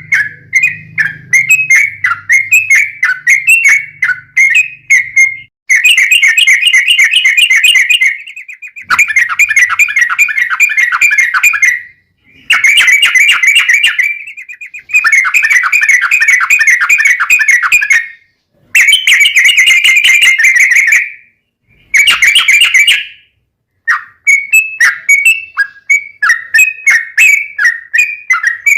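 Sooty-headed bulbul (trucuk) singing loudly: strings of short whistled chirps, then long, fast rattling trills in about six runs broken by abrupt silences, and chirps again near the end.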